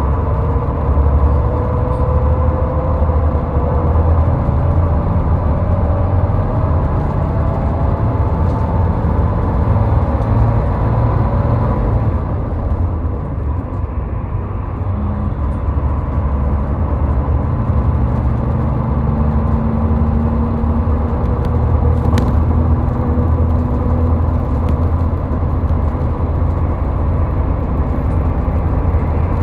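Car driving on a highway: a steady deep rumble of engine and tyre noise, with a faint whine that rises slowly in pitch over the first ten seconds.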